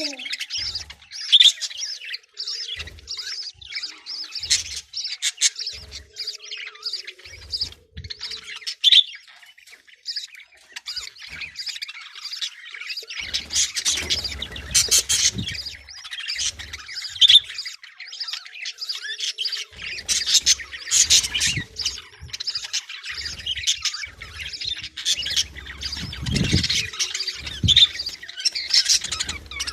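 A flock of Australian parrots chirping and squawking without pause, in busy chattering flurries that grow louder several times, while the parent birds feed their chicks.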